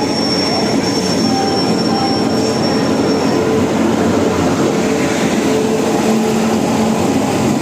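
Train moving along a station platform: loud, steady rumble of wheels on rails, with a thin high tone that stops a little over three seconds in.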